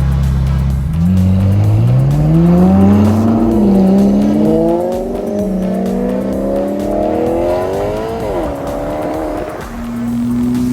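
A car engine accelerating hard through the gears: its pitch climbs, drops back at each upshift about three and a half, five, and eight and a half seconds in, then settles to a steady drone near the end.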